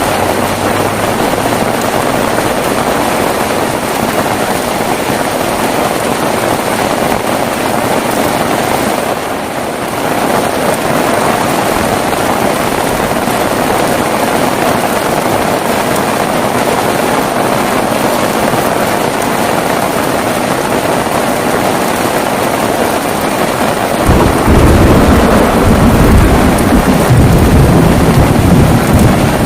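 Heavy rain falling steadily. Near the end a loud low rumble of thunder rolls in and becomes the loudest sound.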